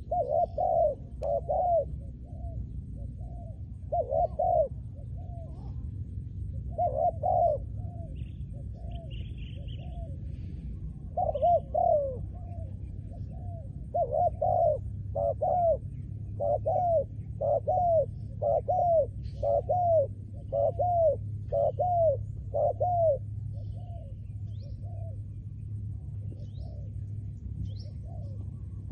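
Spotted dove cooing repeatedly, in phrases of short, arched, mellow coos, with the coos coming in a faster run through the middle. A low steady rumble lies underneath.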